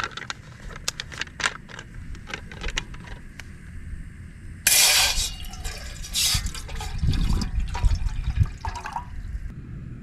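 Camp cookware being handled with small clicks and knocks, then, about halfway in, water poured into a cooking pot with a sudden rush and gurgle for several seconds, likely to start rice cooking.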